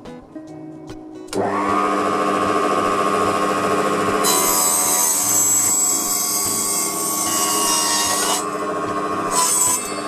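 Proxxon mini table saw switching on about a second in, its motor whine rising quickly to a steady pitch. From about four seconds in the blade cuts through wood for about four seconds, with a second brief cut near the end.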